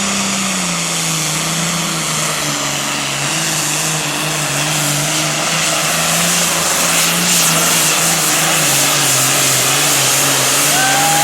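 Super Farm pulling tractor's diesel engine running hard at full throttle under the load of the pull sled, its pitch dropping in the first second and then holding steady. A short high whistle sounds near the end.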